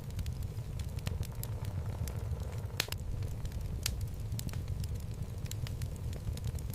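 Wood fire burning in a home fireplace: a steady low rumble of flames with frequent sharp crackles and pops from the burning logs, one louder pop about three seconds in.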